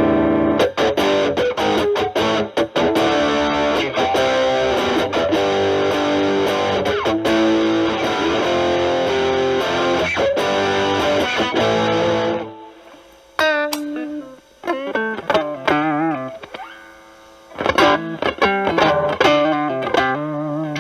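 Stratocaster single-coil pickups through a Proco RAT2 distortion stacked with an Ibanez TS9 Tube Screamer (gain at 10 o'clock) into a Marshall Valvestate amp, giving a heavily distorted electric guitar tone. Dense, sustained playing for about twelve seconds gives way to sparser single-note lead phrases with bends and vibrato, broken by short pauses.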